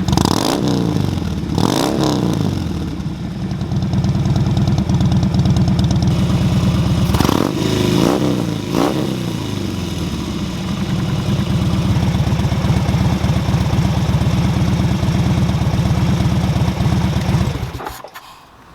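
2017 Harley-Davidson Dyna Fat Bob's Twin Cam 103 V-twin idling through S&S Slash Cut slip-on mufflers, with five quick throttle blips: two in the first two seconds and three in a row about seven to nine seconds in. The engine sound cuts off shortly before the end.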